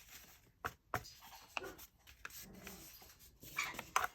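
Paper being handled and trimmed: scattered soft clicks and rustles, with a brief faint whine about halfway through.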